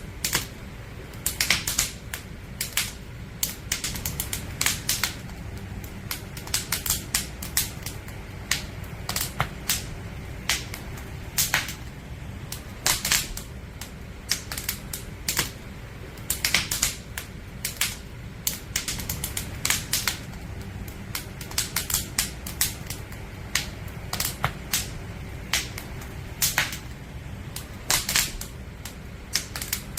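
Firewood burning in a campfire, crackling with irregular sharp pops, several a second at times, over a steady low rumble of the flames.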